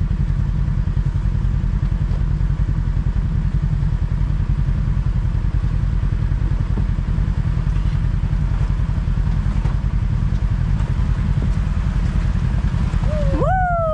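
Kawasaki KRX side-by-side's engine running steadily while the vehicle is under way, a dense, pulsing low rumble.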